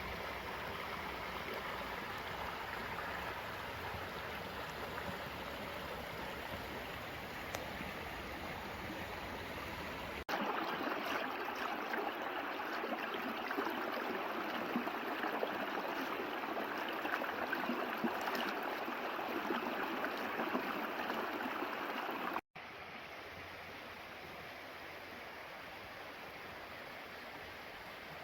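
Mountain stream flowing steadily. The level jumps up abruptly about ten seconds in and drops again a little past twenty seconds.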